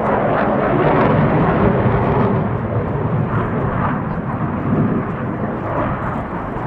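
Jet noise from a CF-18 Hornet fighter's two General Electric F404 turbofan engines in flight, swelling just after the start and easing slightly after about five seconds.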